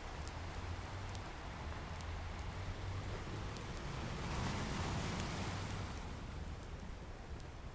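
Ocean waves washing in, one swell building to a peak about halfway through and easing off, with scattered crackles and pops from a wood fire over the top.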